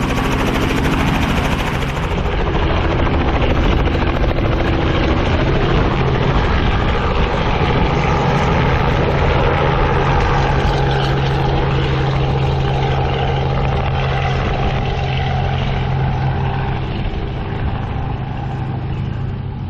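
Four-seat helicopter running on the ground close by: steady rotor chop over the engine's drone, easing off a little near the end.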